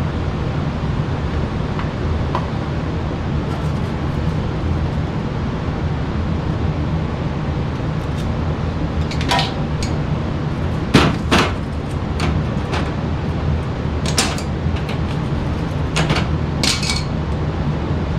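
Steady low mechanical hum, with a handful of sharp knocks and clanks in the second half as furnace parts and tools are handled.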